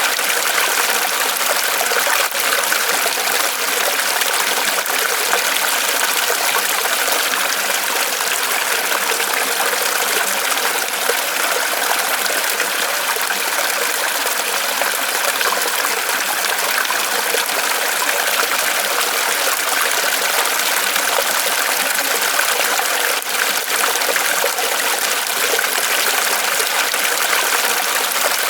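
Small waterfall of water trickling and splashing steadily off a tree trunk.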